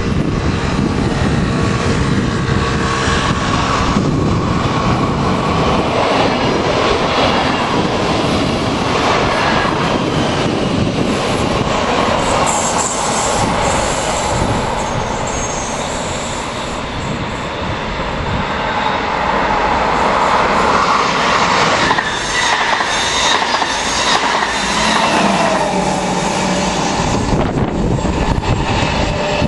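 Dutch electric passenger trains running along the line and through stations, heard trackside and then from on board near the end. Continuous wheel-on-rail rumble and rattle, with a thin held tone at times.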